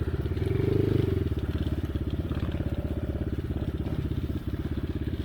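Off-road motorcycle engine running steadily while being ridden, with a brief swell about a second in.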